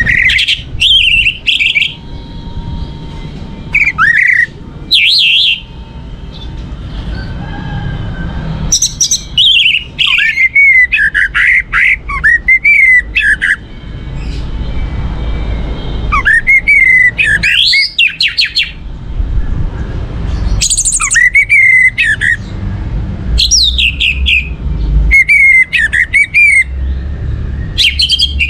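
Orange-headed thrush singing in separate loud phrases of varied sweeping whistles and fast chatter, with pauses of one to three seconds between phrases, over a low background rumble.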